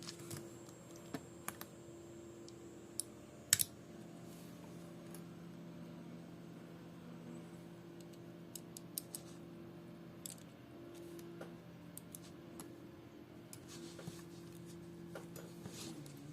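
Small tools clicking and tapping against the parts of an opened smartwatch: scattered light clicks, one sharper about three and a half seconds in, over a steady low hum.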